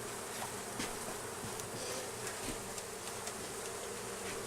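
Honeybee colony buzzing steadily as a mass of bees, with a few faint clicks.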